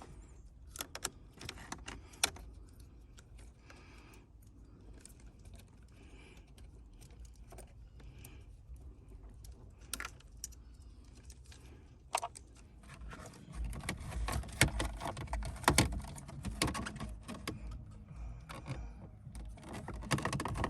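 Light clicking and rattling of plastic parts and wiring connectors being handled and pushed into place on a car's steering column, with a cluster of louder knocks and thumps about two-thirds of the way through.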